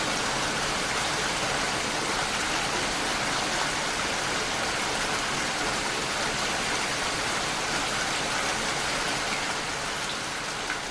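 Steady rainfall, an even, dense hiss with no distinct drops standing out. It eases slightly in the last second.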